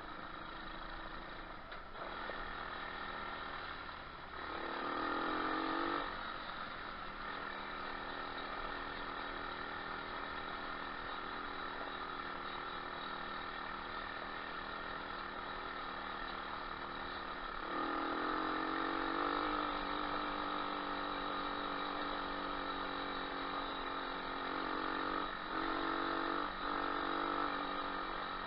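Moto4 125cc pitbike's single-cylinder four-stroke engine running under way, its pitch climbing briefly about four seconds in, then settling. About eighteen seconds in it revs up again and holds higher, with two short drops in pitch near the end as the throttle is eased or a gear changes.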